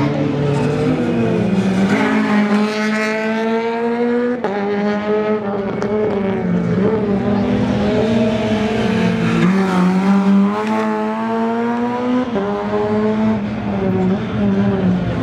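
Rally car engine accelerating hard through the gears. The pitch climbs and drops back at each gearchange, several times over.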